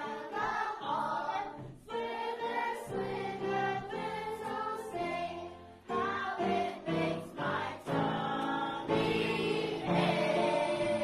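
A choir singing held notes, with brief pauses between phrases about two and six seconds in.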